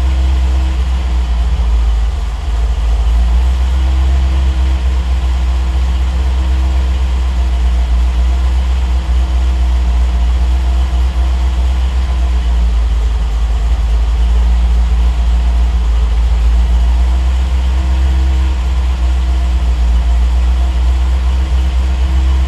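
Triumph TR8's V8 engine idling steadily while warming up after a cold start, its idle held by a freshly tuned Megasquirt engine computer.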